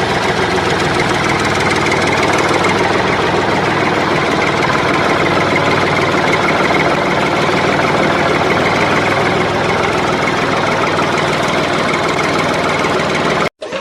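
A small engine or motor running steadily at a constant speed, cutting off abruptly near the end.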